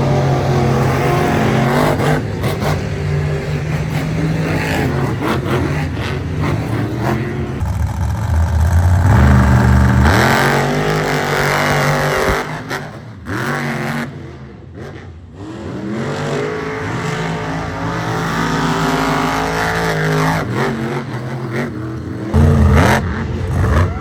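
Monster trucks' supercharged V8 engines revving hard, the pitch climbing and falling again and again, with a short lull partway through before the revving picks up again.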